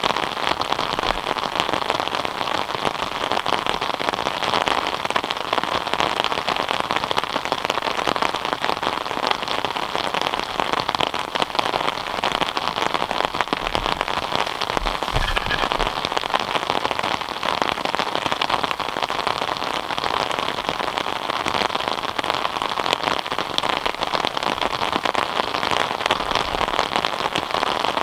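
Steady rain falling and pattering on surfaces, a dense even hiss of countless drops.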